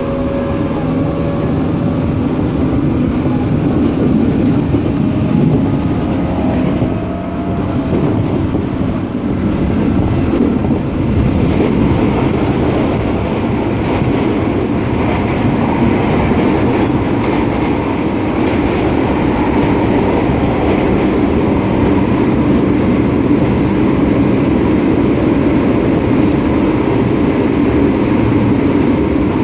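Running noise of a JR 205 series electric train heard from inside the car while it is under way. The noise is steady, with a faint pitched tone near the start and a brief dip in level about seven seconds in.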